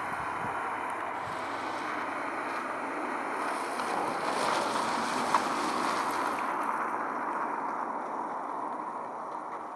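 Road traffic noise: a vehicle passing, swelling to its loudest about halfway through and then fading, with a single sharp click about five seconds in.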